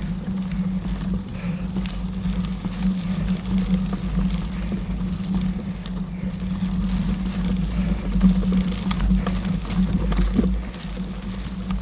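Mountain bike riding heard from an on-bike or on-rider camera: a steady rumble and buzz from tyres on the trail and wind on the microphone, with scattered small rattles and clicks.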